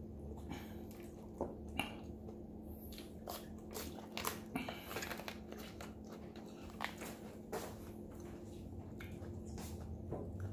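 Close-up chewing and mouth sounds of someone eating roasted Cornish hen: irregular wet smacks and clicks, some sharper than others. A steady low hum runs underneath.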